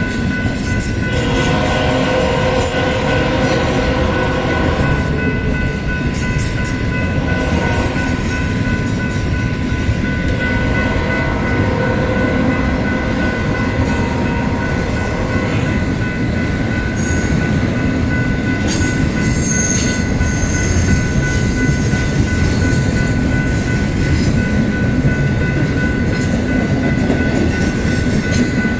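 Freight cars of a BNSF intermodal train rolling past, a steady loud rumble and rattle of wheels on rail, with steady high-pitched tones sounding over it.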